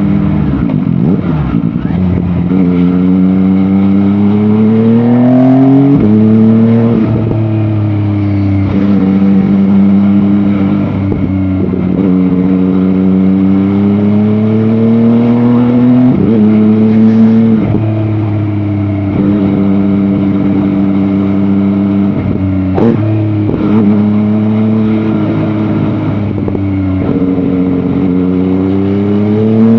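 MV Agusta Dragster 800 RR's three-cylinder engine pulling under way. Its pitch climbs through each gear and drops suddenly at each upshift, several times over.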